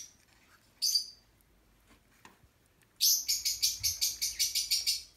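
A bird chirping, high-pitched: a short chirp, a falling double chirp about a second in, then a rapid, even run of about seven chirps a second lasting about two seconds.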